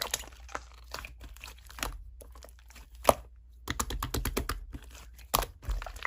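Slime being squeezed and poked by hand, giving irregular sticky clicks and crackles, with a denser run of clicks a little past halfway.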